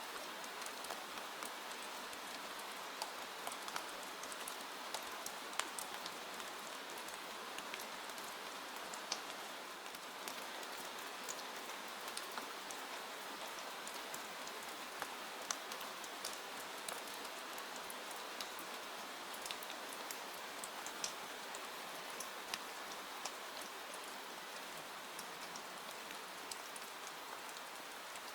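Steady rain falling, an even hiss with many scattered sharp ticks of drops and crackles.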